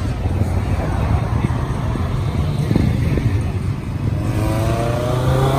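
A roadster's engine accelerating hard, its note climbing steadily in pitch over the last second and a half, after a stretch of low engine rumble and road noise.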